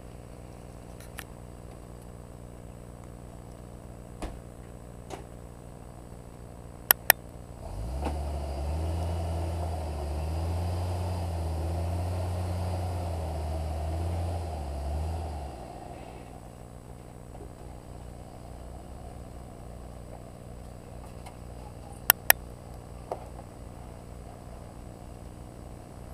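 Hummer H3 engine with a Magnaflow exhaust idling, then about eight seconds in it revs up and pulls under load for about seven seconds, its pitch wavering, before dropping back to idle. Two quick pairs of sharp clicks, one just before the revving and one near the end.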